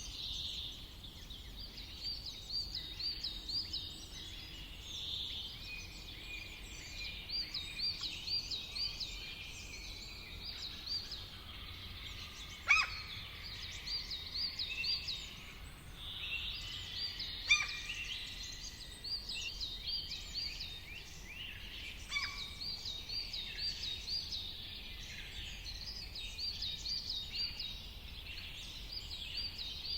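Several wild birds chirping and singing over a steady low background hiss, many of them in quick repeated runs of high chirps. Two short, sharp calls or snaps stand out as the loudest sounds, about a third and halfway through.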